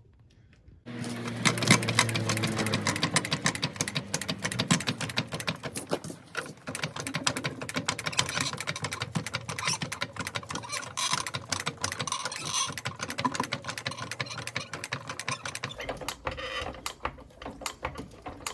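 Engine of a 2011 VW Golf wagon with a leaking exhaust running, with a dense rapid ticking over a low hum; the low hum cuts off near the end as the engine is shut off.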